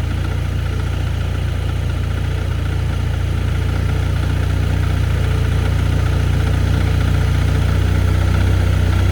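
A 2007 Polaris IQ 750 snowmobile engine idling steadily just after an extreme cold start, still warming up.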